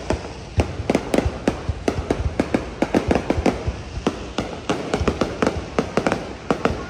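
Aerial fireworks bursting: a rapid, irregular string of sharp cracks and bangs, several a second, over a continuous low rumble of further explosions.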